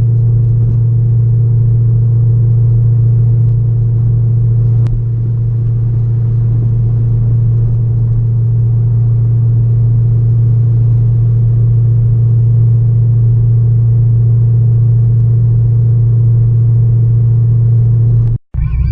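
Straight-piped Corvette V8 exhaust droning at a steady cruise, one low unchanging note with no revving. It cuts out briefly near the end.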